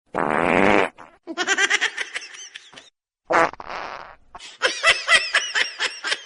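Two short raspy fart-like noises, one at the start and one in the middle, each followed by a run of high-pitched laughter.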